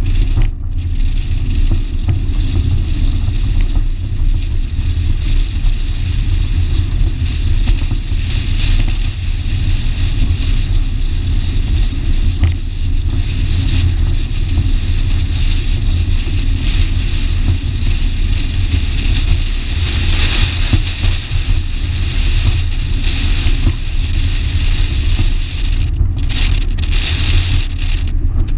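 1987 Shelby GLHS's turbocharged 2.2-litre four-cylinder running hard at track speed: a loud, steady, deep rumble mixed with road and wind noise.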